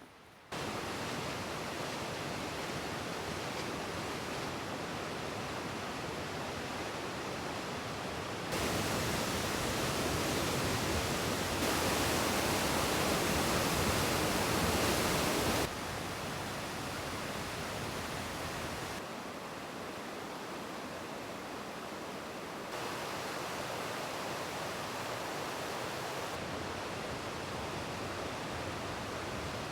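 Steady rushing roar of a large waterfall, with the level jumping up or down at several abrupt cuts and loudest in the middle stretch.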